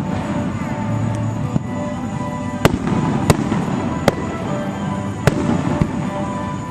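Aerial fireworks shells bursting over steady background music: four sharp bangs, spaced less than a second to about a second apart, starting about two and a half seconds in.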